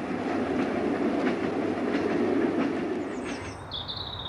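Commuter train running on the rails, a steady rumble with faint wheel clicks. It fades out about three seconds in, and birds start chirping.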